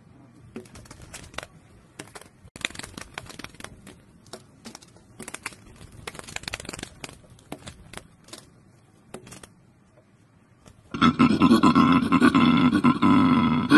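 Faint scattered clicks and crackles, then about eleven seconds in a koala starts bellowing: a loud, deep, rasping call.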